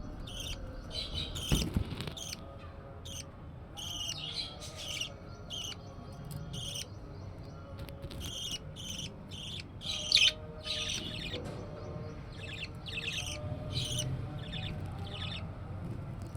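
Budgerigar chicks chirping in short, rapid, repeated calls, with a knock near the start and another about ten seconds in.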